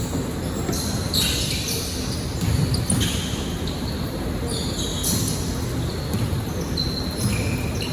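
Basketball game on an indoor court: sneakers squeak repeatedly on the floor while the ball bounces, over a steady low murmur of hall noise.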